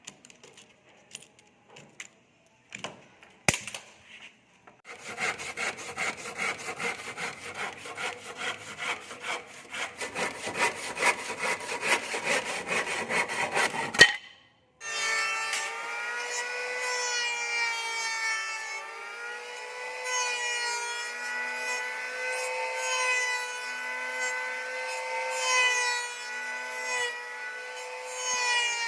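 Wood being sawn: a fast, even run of saw strokes that starts after a few light knocks and stops abruptly. After a short gap, a steady whine with many overtones takes over, wavering slightly in pitch.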